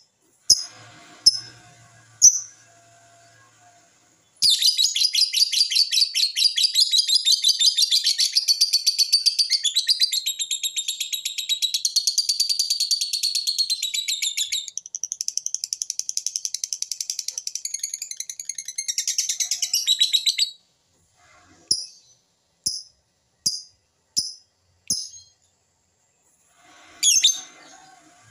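A small bird singing a long, fast, high trilling song that lasts about sixteen seconds, followed by a string of short single chirps.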